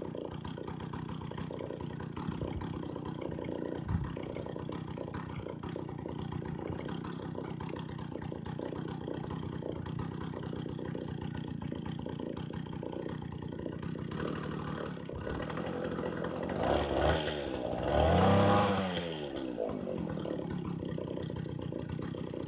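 Two-stroke chainsaw engine running steadily, revved up and back down about three-quarters of the way through.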